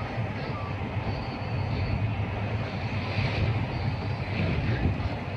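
Boat engine running steadily: a low drone under a constant rushing noise.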